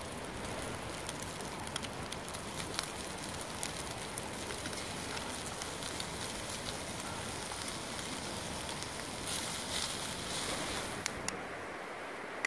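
Bacon and leeks sizzling in a steel pan over a campfire, a steady frying hiss with scattered sharp crackling pops. The sizzle gets louder shortly before the end and then drops away to a quieter background.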